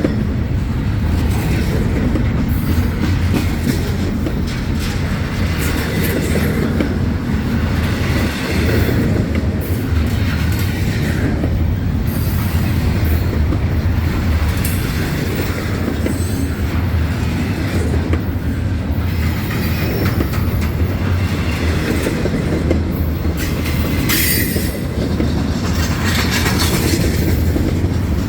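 Freight train rolling past at close range: a steady heavy rumble of the cars with wheels clattering over the rail, and wheels squealing at times.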